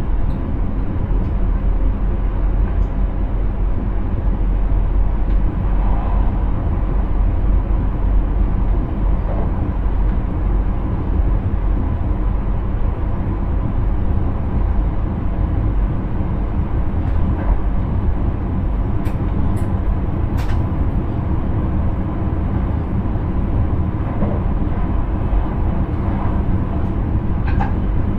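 Intercity train running, heard from inside the driver's cab: a steady low rumble of the train in motion, with a few faint clicks about two-thirds of the way through.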